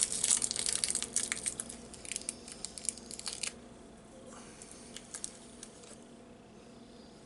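Plastic candy wrapper crinkling as a hard candy is unwrapped by hand: a dense run of crackles for about three and a half seconds, then a few faint crinkles.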